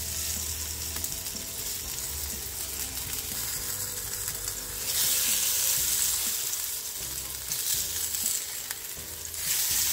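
Masala-coated brinjal (eggplant) slices shallow-frying in hot mustard oil, a steady crackling sizzle that grows louder about five seconds in and again near the end.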